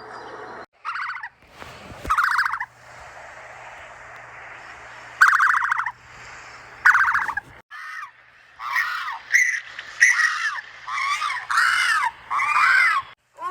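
A series of short animal calls: a few spaced calls, then a quick run of rising-and-falling calls in the second half.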